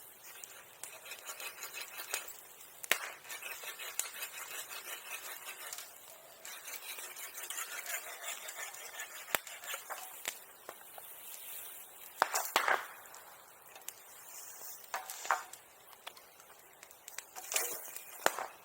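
Bonfire crackling, with scattered sharp pops and a few louder snaps in the second half.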